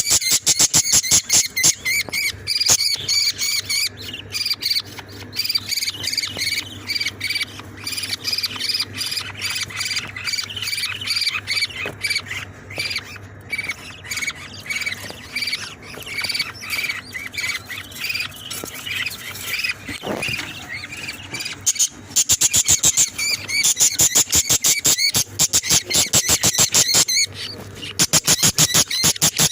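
A flock of small cage birds chirping rapidly and continuously, many calls overlapping, growing louder and busier about two-thirds of the way through.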